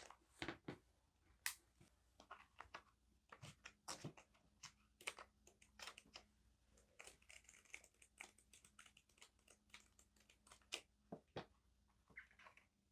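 Paper and packaging being handled close up: an irregular run of soft crinkles, rustles and light taps.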